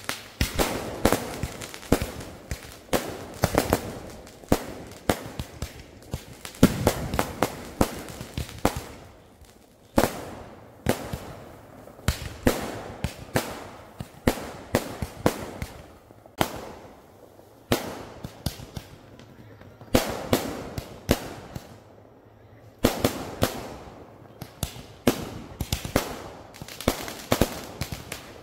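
Aerial fireworks display: rapid, irregular bangs and crackling shell bursts, one after another. The bangs thin out for a few seconds past the middle, then come thick again near the end.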